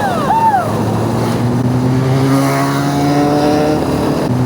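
Motorcycle engine revved in two quick throttle blips, each rising and falling in pitch, then pulling steadily with its pitch slowly rising.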